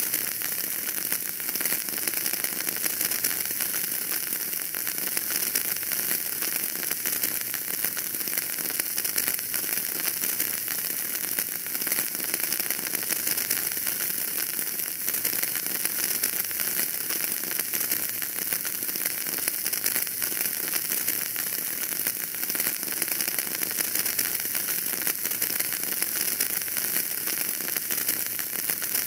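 Wood fire burning in a fireplace, a steady dense crackling with a constant hiss.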